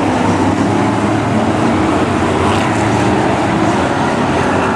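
Brisca F1 stock cars' V8 engines running at racing speed: a loud, steady drone with no let-up.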